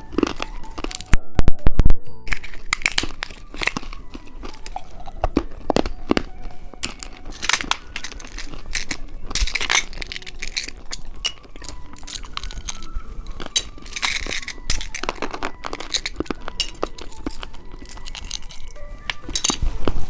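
Candy and its plastic wrappers crinkling, tearing and crunching in a rapid stream of small clicks, louder about a second in, over soft background music.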